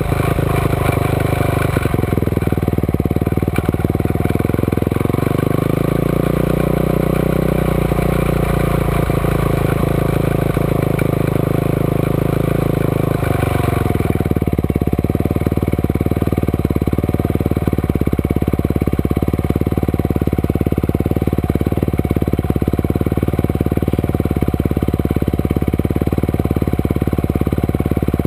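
Off-road motorcycle engine running under way on a dirt track, its revs rising and falling. About halfway through it changes abruptly to a steady idle while the bike stands still.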